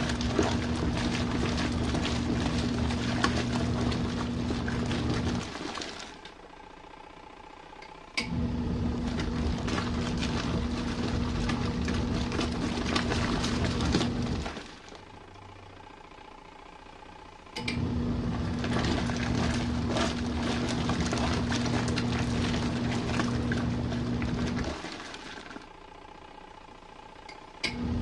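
Compact RV washing machine in its main wash: the wash motor hums and the water churns in runs of about six to seven seconds, each starting with a click, with pauses of two to three seconds between them as the agitator stops and starts.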